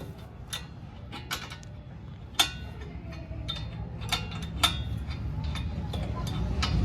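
Spanner clicking and clinking on the mounting nut and bolt of a short-bottle motorcycle silencer as it is tightened: scattered sharp metallic clicks with a brief ring, irregularly spaced, over a low rumble that grows toward the end.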